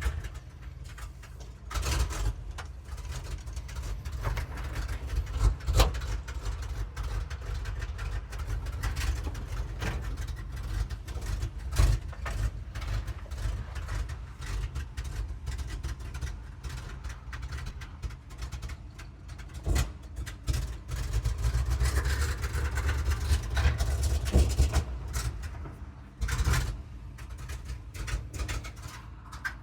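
A vehicle engine idling steadily, with scattered knocks and clanks of handling and work around it.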